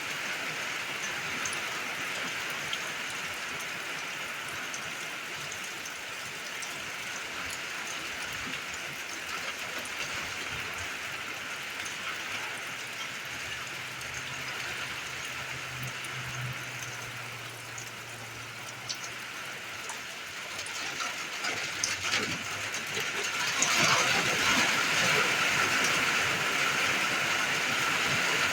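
Steady rainfall, a dense patter of drops that gets heavier and louder about two-thirds of the way through. A faint low hum runs underneath for a few seconds in the middle.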